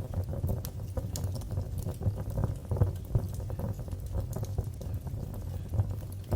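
Wood fire in a fireplace crackling, with irregular quick pops and snaps over a low steady rumble of the flames.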